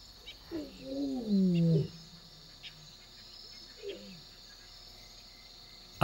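A lion's low, drawn-out call sliding down in pitch, then a shorter call about four seconds in, over a steady chirring of insects.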